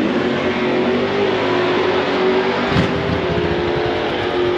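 Drag-racing car's V8 engine running at high rpm with a steady pitch, and a sharp break about three seconds in.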